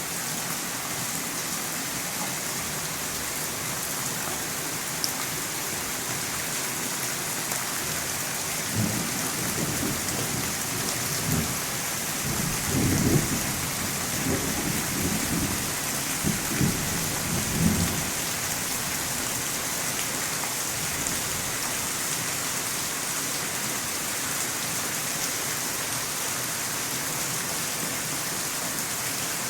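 Steady rain falling, with a low rumble of thunder rolling in about nine seconds in and dying away by about eighteen seconds.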